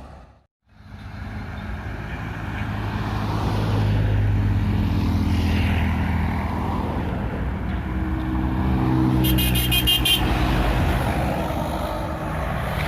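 A heavy vehicle's engine running and pulling past, louder through the middle. About nine seconds in there is a short, high horn blast.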